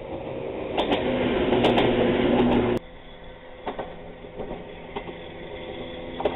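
Echizen Railway electric railcar running past close by, its wheels rumbling and clicking on the rails and growing louder, cut off abruptly about three seconds in. Then a train approaching from a distance, fainter and slowly getting louder, with occasional clicks.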